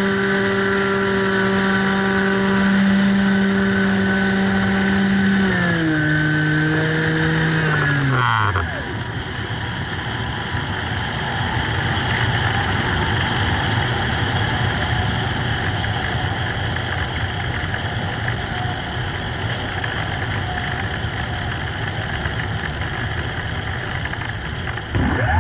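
A radio-control plane's motor runs at a steady pitch, then is throttled back about six seconds in, its pitch falling away until it stops. A steady rushing hiss follows until the motor comes back on at the very end.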